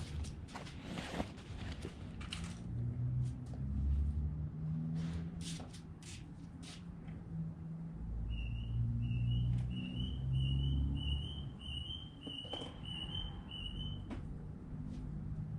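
A bird calling a quick, even series of about a dozen short, slightly rising high notes, a little over two a second, for several seconds in the second half. Under it runs a low rumble, with scattered clicks and rustles in the first half.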